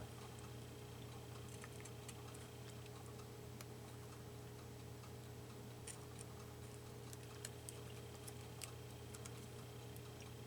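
Faint, irregular clicks and snips of small scissors cutting paper, over a steady low room hum.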